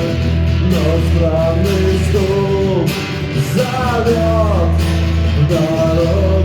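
A man singing a rock song with guitar accompaniment.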